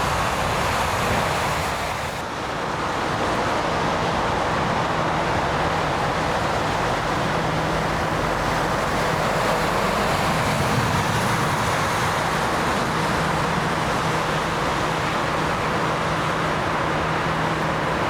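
Jet airliner engines giving a steady roar, with a brief dip about two seconds in.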